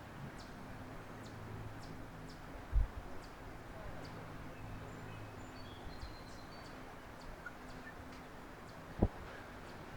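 Small birds giving faint, scattered high chips and a few short whistled notes, over a low steady hum. Two dull low thumps, about three seconds and nine seconds in, are the loudest sounds.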